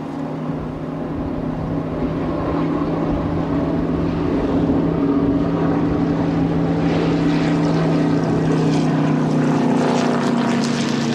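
A steady, pitched engine drone that grows louder over the first few seconds and drops slightly in pitch after the middle, with a hiss building in the second half.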